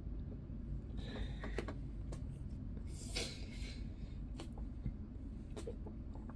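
Faint scattered clicks and taps of small objects being handled on a workbench, with a short rustle about three seconds in, over a low steady room hum.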